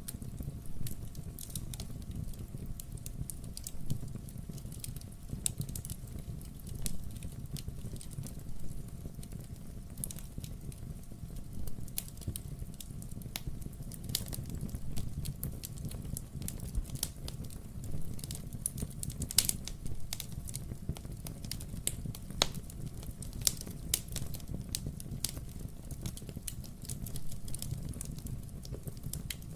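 Wood fire crackling in a fireplace: a steady low rumble of burning logs with frequent irregular sharp pops and snaps.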